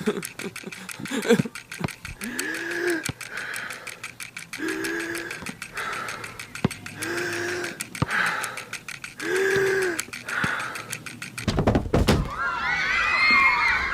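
Rapid knocks and clicks of running feet on a gym floor, with a short voiced grunt-like sound about every two and a half seconds. Near the end comes a heavy thud, then a loud, wavering high cry.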